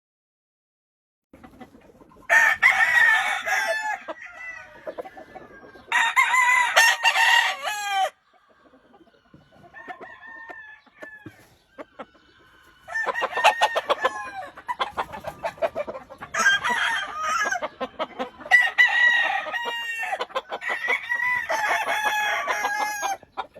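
Gamefowl roosters crowing, one crow after another and overlapping in the second half, with clucking and short calls between the crows. The sound starts after a moment of dead silence.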